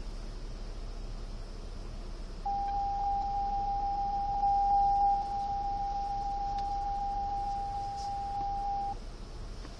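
An Infiniti's parking-sensor alert sounding one steady, unbroken beep for about six seconds while reversing. It starts a couple of seconds in and cuts off suddenly near the end. A continuous tone like this means an obstacle is very close, here the lift posts on either side.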